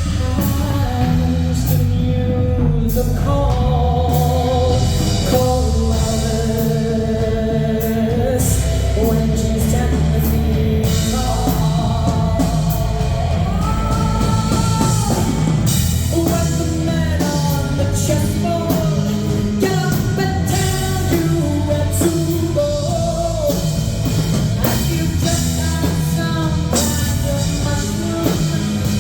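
A live rock band, with drum kit and guitar, plays under a woman singing a wavering, drawn-out melody.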